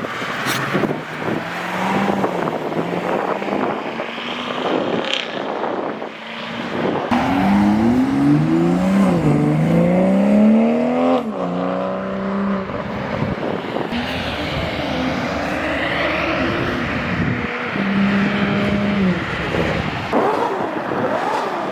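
Cars accelerating past one after another, engines revving up through the gears so the pitch repeatedly climbs and drops, loudest about a third of the way in.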